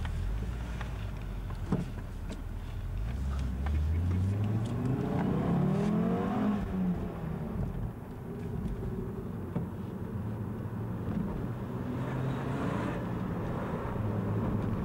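VW Jetta's engine heard from inside the cabin, with road noise, as the car drives. About four seconds in, the engine climbs in pitch for a couple of seconds as it accelerates, then drops away and settles into a steadier, lower hum. A single sharp knock comes near two seconds in.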